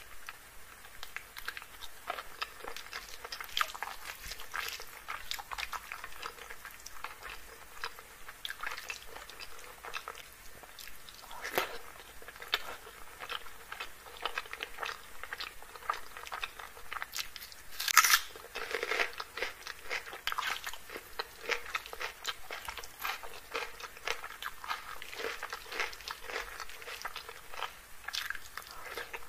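Close-up chewing and crunching of a mouthful of chicken curry and rice eaten by hand, a string of small sharp crackles and bites, with one louder crack about eighteen seconds in.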